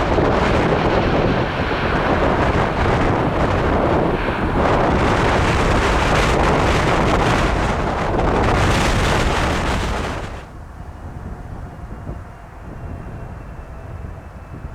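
A Boeing 747-8F's jet engines roar as it comes in to land, mixed with heavy wind buffeting on the microphone. About ten seconds in the sound cuts off sharply to a much quieter scene with a faint, steady jet-engine whine from a Boeing 777-300ER on approach.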